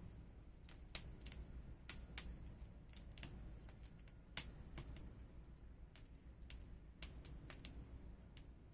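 Burning firewood crackling, with irregular sharp pops a few times a second.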